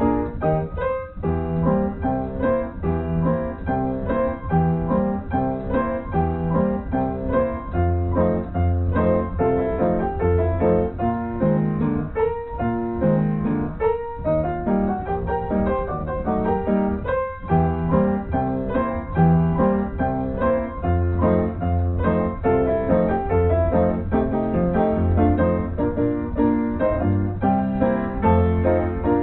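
Background piano music, note after note at a steady pace.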